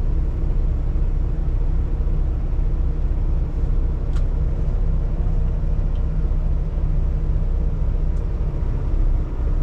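Semi truck's diesel engine running steadily, heard from inside the cab as a constant low rumble. A brief click sounds about four seconds in.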